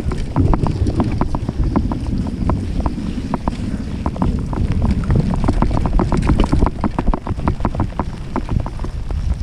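Wind buffeting a GoPro microphone during a mountain bike ride, a heavy low rumble with many quick, irregular ticks and rattles over it.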